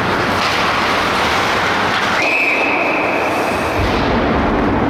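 A single steady, high whistle blast lasting about a second and a half, starting about two seconds in, over constant loud noise.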